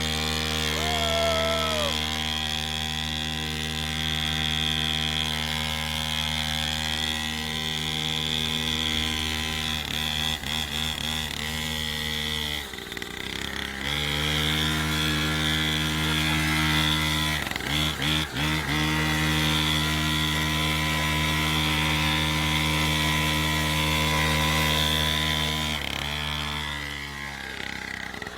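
Small 49cc two-stroke petrol engine of a mini dirt bike idling steadily, faltering briefly twice and picking back up.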